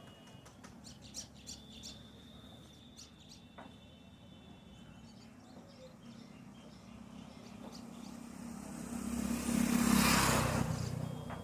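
Faint, scattered bird chirps with a thin high whistle early on, then a vehicle passing on the road, swelling to its loudest about ten seconds in and fading away.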